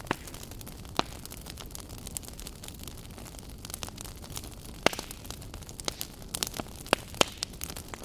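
Wood fire burning in a fireplace, crackling with irregular sharp pops over a steady low rush of flame. The loudest pops come about a second in, near five seconds in, and twice close together near seven seconds.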